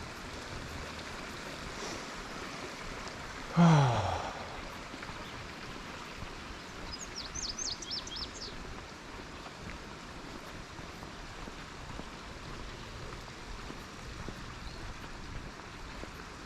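Steady outdoor background hiss on a hike, broken about three and a half seconds in by a short, loud falling vocal sigh from the hiker. A little later a bird gives a quick run of high, thin chirps.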